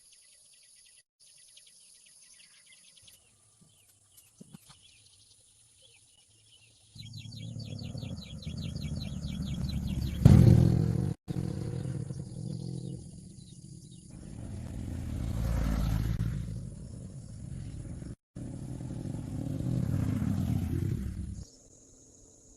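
Birds and insects chirping faintly, then about seven seconds in an engine starts running loudly, rising and falling in speed about three times, with two brief breaks, before it stops near the end.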